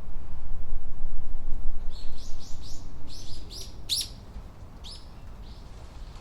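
A small bird calling a quick run of short, falling chirps, about eight to ten of them, over a low wind rumble that swells loudest in the first few seconds and then eases off.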